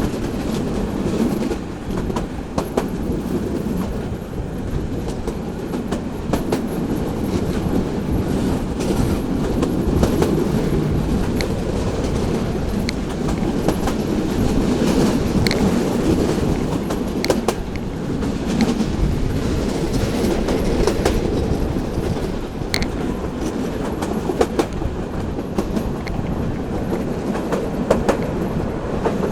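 Local passenger train running along the track: a steady rumble of wheels on rails, broken by irregular sharp clicks from the rail joints.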